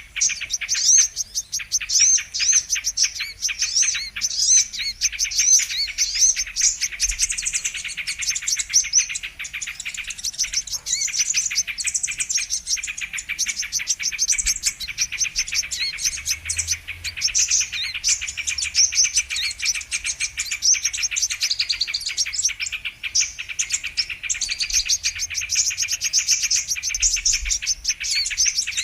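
Sunbirds (the species called kolibri kelapa or kolibri manggar) chirping and twittering fast and without a break, many high notes crowding over one another. It is a bird-trapping lure recording meant to call sunbirds in.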